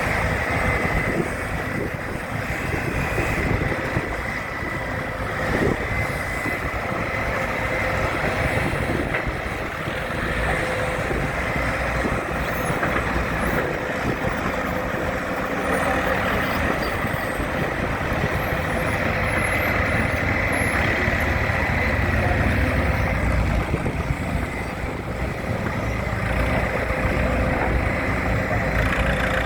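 County timber winch tractor engine running steadily, a continuous low rumble with a faint steady whine above it.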